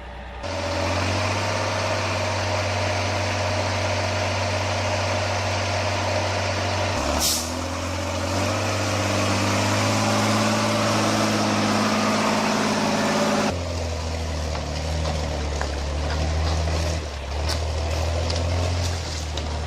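Mercedes Unimog's diesel engine running steadily under load. Its note shifts about seven seconds in and again near fourteen seconds, with a short air hiss about seven seconds in.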